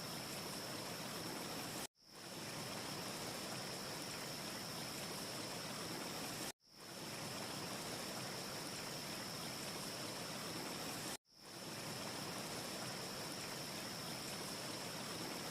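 A steady wind-like rushing hiss from a short looped ambience recording, with a thin high whistle over it. It cuts out to silence three times, about every four and a half seconds, and fades back in each time as the loop restarts. No fire crackle stands out.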